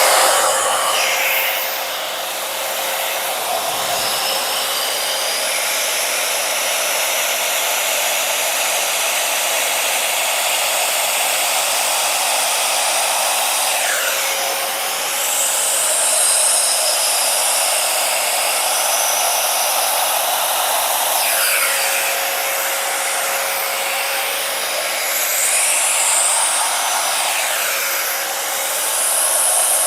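Small handheld blow dryer running steadily, a loud rush of air over a thin motor hum, blowing acrylic paint outward across a canvas. The rush of air dips and rises in pitch a few times, about halfway through and again near the end.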